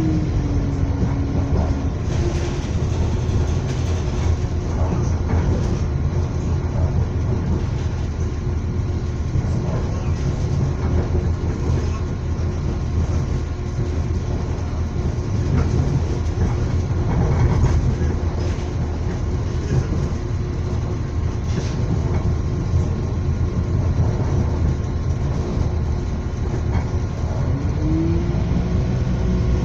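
Electric train running, heard from inside a carriage: a steady low rumble of wheels on the rails with a steady whine that shifts in pitch near the start and again near the end, and a few faint knocks over the track.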